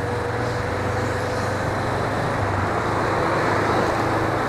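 Suzuki V-Strom 250's parallel-twin engine running steadily under way, with wind and road noise rushing over the action camera's microphone. A faint steady whine fades out about two seconds in.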